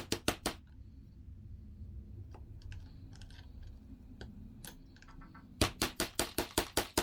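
Rapid, evenly spaced hammer taps on metal, about six or seven a second, driving a bearing into the engine case, with the old bearing used as a drift. One run of taps stops about half a second in, and a second run starts near the end.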